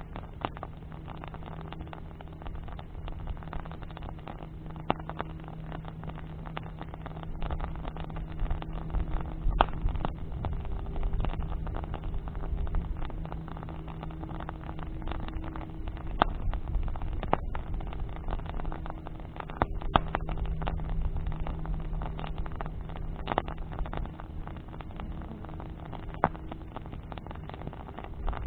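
Bonfire of burning branches crackling, with scattered sharp pops now and then, over a steady low motor hum.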